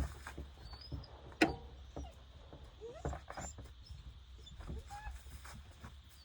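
Puppies giving a few short whines, with one sharp click about a second and a half in and a few faint high chirps.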